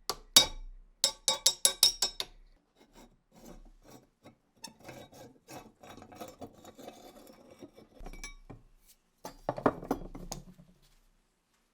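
Hand work on metal machine-gun parts: a quick run of sharp clicks, then several seconds of rubbing, with a louder scrape near the end.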